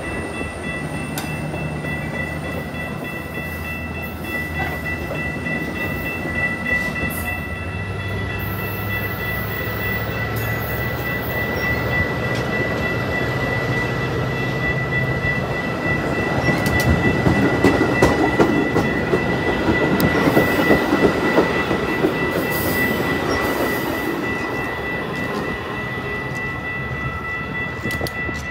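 A train passing close by: a steady rumble of wheels on rail with scattered clicks from the rail joints and a continuous high-pitched whine. It grows louder about two-thirds of the way through, then eases.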